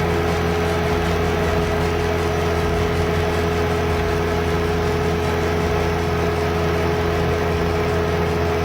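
Engine of a TERRA-JET 4015 S horizontal directional drilling rig running steadily at constant speed, with a steady tone held over its low hum.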